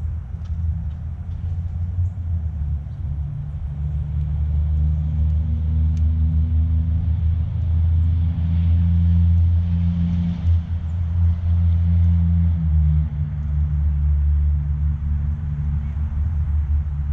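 Low, steady engine rumble, as of a motor vehicle running, which swells in the middle and eases off again.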